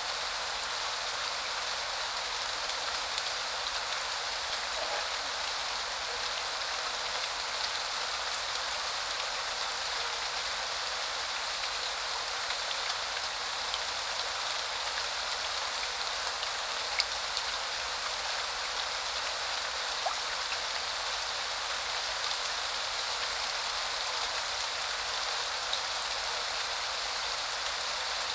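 Steady rain falling: a dense, even hiss of drops, with an occasional single louder drop tap standing out.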